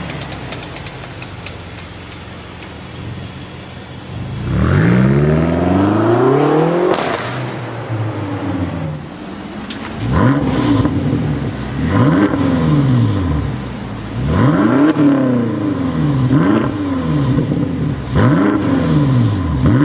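High-performance car engine accelerating hard about four seconds in, its pitch climbing steeply. It is then revved in a run of short blips, each rising and dropping back within about a second.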